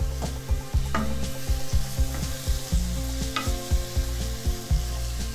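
Chopped tomatoes and onions sizzling in hot oil in a kadai while a wooden spatula stirs them. Two sharp knocks of the spatula against the pan come about a second in and again past the three-second mark.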